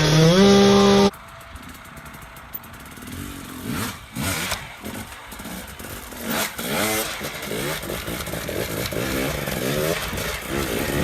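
Dirt bike engine revving, climbing in pitch in steps, then cut off abruptly about a second in. Quieter dirt bike revving follows, rising and falling over and over.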